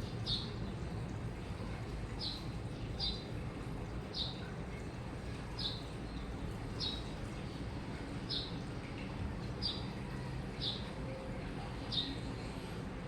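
Washing machine running with a steady low rumble. Over it, a short high chirp repeats about once every second or so.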